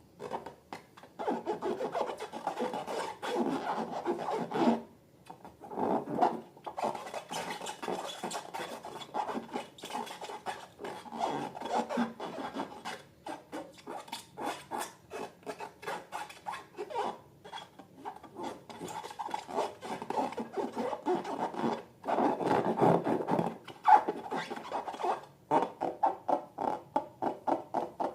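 Slime being squished and worked by hand: a dense run of sticky clicks and crackles with rubbing, squelching noise, coming in stretches with a few short pauses.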